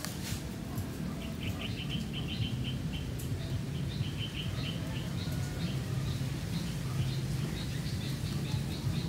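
Small birds chirping in short rapid series over a steady low hum, with a sharp crack right at the start.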